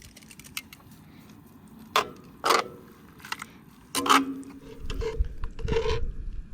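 Metal cookware clanking: a few sharp knocks, two close pairs, some leaving a short ringing tone, as a utensil or lid strikes a camp cooking pot. A low rumble follows near the end.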